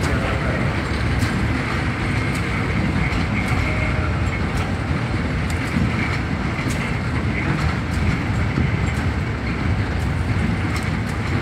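A KFW i9000 electric commuter train rolls slowly through the station, a steady rumble of wheels on rail with scattered clicks.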